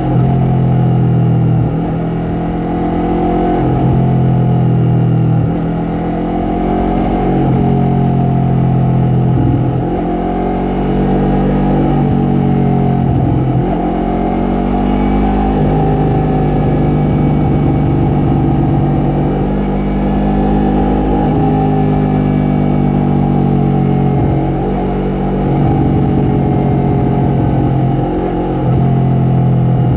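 Yamaha MT-03 motorcycle engine and exhaust under way, the engine note rising and falling again and again as the throttle opens and closes through gear changes.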